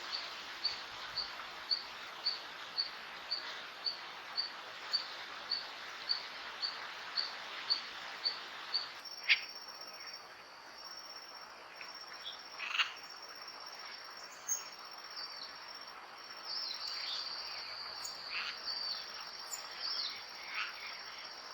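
Night chorus of insects and frogs: a high short note repeating evenly about twice a second over a steady hiss, which gives way about nine seconds in to a high, steady insect trill with gaps and a few quick falling calls.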